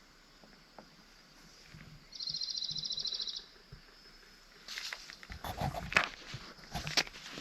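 A brief, fast, high-pitched trill a little after two seconds in, lasting just over a second. From about five seconds on, irregular knocks, clicks and rustling of things being handled grow louder toward the end.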